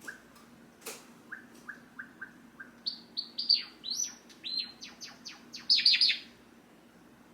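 Java sparrow singing: a series of soft, evenly spaced notes builds into louder, quickly falling chirps that end in a loud burst and then stop.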